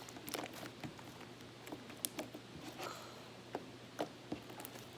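Slime being kneaded and squished by hand, giving faint irregular wet clicks and squelches as liquid starch is worked in.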